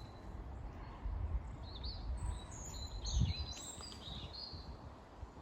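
Small birds chirping in short, high calls, scattered through the middle of the stretch, over a low, steady rumble.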